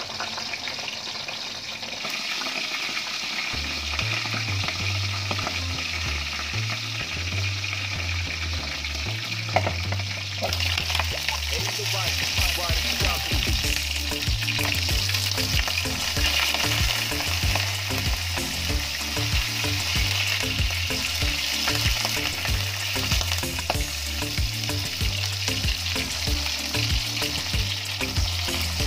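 Eggplant frying in oil in a steel wok, a steady sizzle. After a sharp clink about nine and a half seconds in, the sizzle turns louder and brighter, as the lid comes off the wok.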